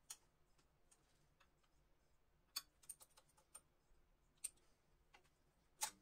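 Faint, scattered sharp clicks and light taps, about ten of them at uneven intervals, with a quick cluster in the middle and the loudest one near the end.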